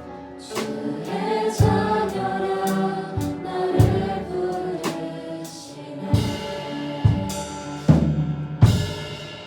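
Live worship band playing: voices singing together over piano, with drum kit hits (bass drum and cymbal crashes) every second or so.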